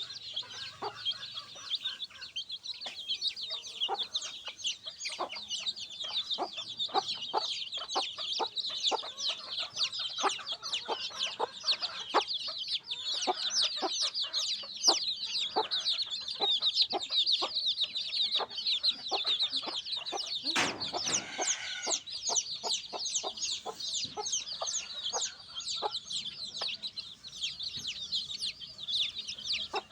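A brood of baby chicks peeping continuously, with a hen's short clucks underneath. One louder, harsher call comes about two-thirds of the way in.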